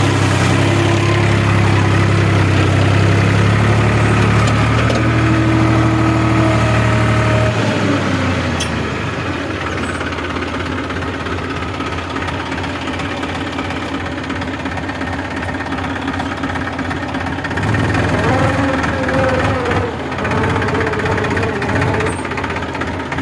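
New Holland tractor's diesel engine running steadily with a deep drone; about eight seconds in the drone drops away and the engine sound becomes quieter for the rest of the stretch.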